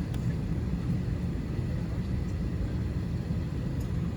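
Steady low rumble with a faint hiss inside the cabin of a parked Airbus A321 airliner before engine start.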